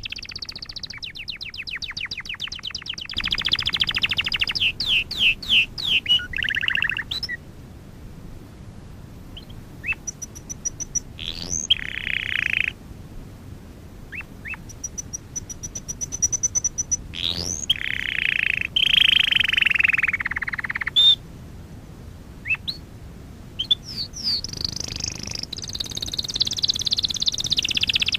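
Domestic canary singing: phrases of rapid trills and rolls and quick rising notes, broken by short pauses of one to three seconds.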